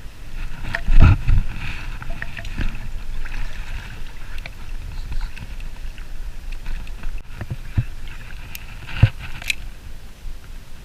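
Knocks and bumps on a kayak's hull over a low rumble and light water noise. The loudest knock comes about a second in, with smaller ones later and two more near the end.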